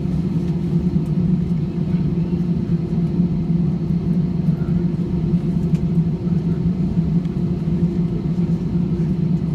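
Steady low drone inside an airliner's cabin on the ground after landing: the engines and cabin air running with an even hum.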